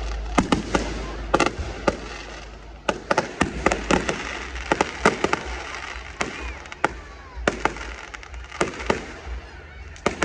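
Aerial fireworks going off: a rapid, irregular run of sharp bangs and cracks, coming thick in the first half and thinning out after about six seconds.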